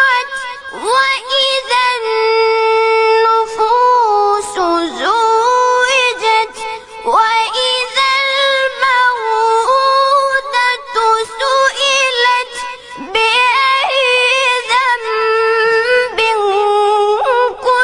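A high-pitched voice chanting Quranic recitation in a melodic tajweed style, holding long notes with ornamented turns and pausing briefly for breath between phrases.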